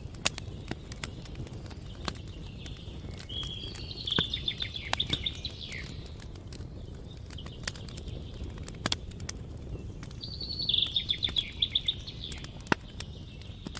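A songbird sings two phrases of quick repeated notes, one about three seconds in and another about ten seconds in, over campfire crackling with scattered sharp pops and a low steady rush.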